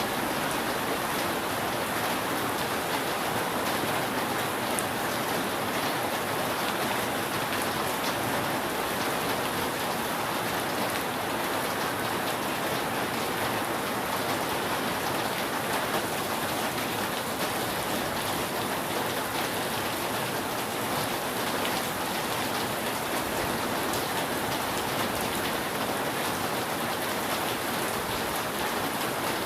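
Steady rain falling on a roof: an even hiss of rain dotted with countless small drop ticks, with no thunder.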